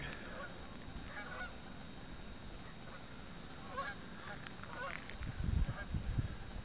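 Distant geese in a passing flock honking a few times, faint and spread out. Low rumbling bursts come in during the last second or so and are the loudest sound.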